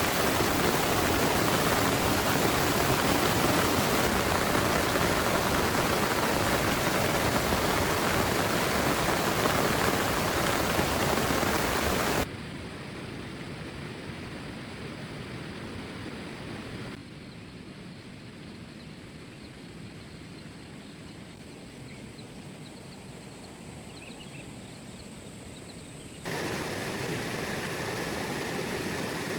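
Heavy rain pouring down in a steady hiss. It drops abruptly to a quieter, duller rain about twelve seconds in, drops again a few seconds later, then jumps back up to a louder downpour near the end.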